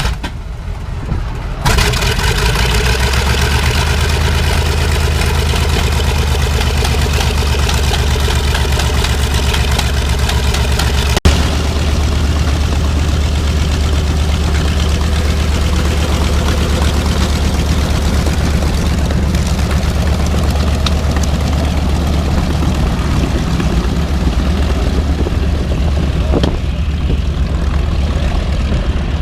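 Piston aircraft engine running steadily at a low, even pitch, coming in loud about two seconds in, with one sharp click near the middle.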